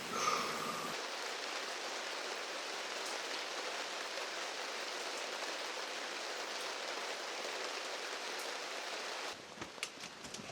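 Hail falling steadily in a dense, even patter. Near the end it gives way to quieter, scattered sharp taps.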